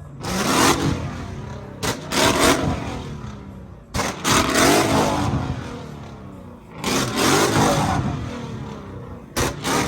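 Car engines revved hard at a standstill, about five times, each rev coming in sharply and then falling away.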